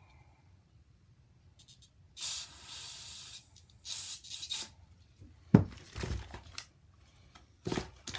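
Aerosol spray can hissing into a nitro RC engine's pull-start recoil, aimed at its slipping one-way bearing: one long burst about two seconds in, then two short ones. Sharp knocks and clatter follow from about five and a half seconds in.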